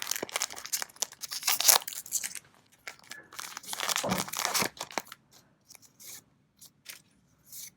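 Trading cards being slid and flicked through by hand: brisk rustling strokes for about two seconds, another run of them around the middle, then a few light ticks.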